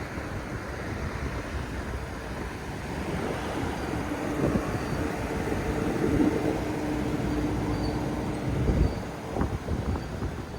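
The 6.2-litre gas V8 of a Ford F250 pickup running, a low rumble with a steady hum through the middle, with wind buffeting the microphone.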